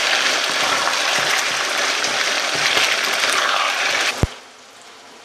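Chicken pieces sizzling hard in very hot oil in a wok as they are stirred with a wooden spatula. The sizzle cuts off with a click about four seconds in.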